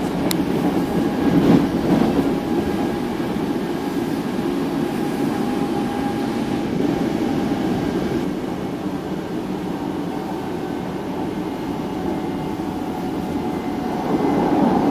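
Hankyu Kyo-train Garaku electric train heard from inside the passenger car while running: a steady rumble of wheels on rails with a faint thin whine over it, growing a little louder near the end.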